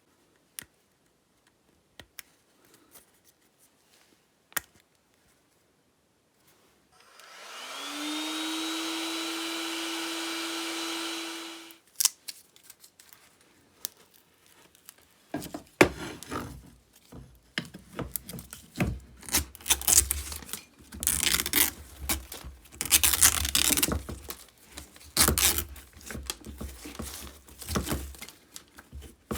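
Light clicks of parts being handled. Then a small electric motor spins up with a rising whine, runs steadily for about five seconds and cuts off. From about halfway on, irregular loud scraping and scrubbing noises follow, as parts are cleaned.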